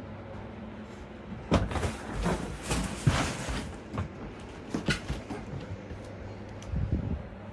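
A run of knocks and scraping rattles of objects being handled, loudest between about one and a half and four seconds in, with a few more knocks later, over a steady low hum.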